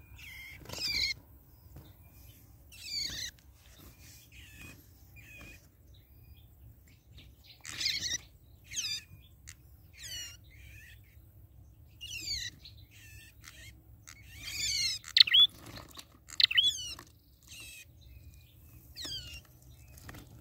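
Small songbirds calling in short bursts of quick, sweeping chirps, one burst every second or two, the loudest bursts coming near the end.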